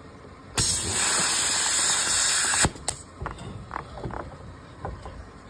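Compressed air hissing into a flat tractor tire through an air chuck on the valve stem, in one steady blast of about two seconds that cuts off sharply. A few light clicks of handling follow.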